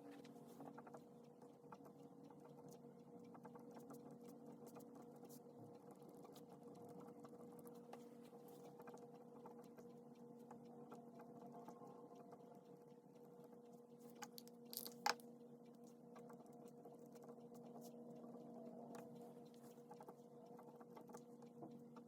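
Faint pen scratching and tapping on paper as Japanese text is copied out by hand, over a steady low electrical hum, with one sharper click about fifteen seconds in.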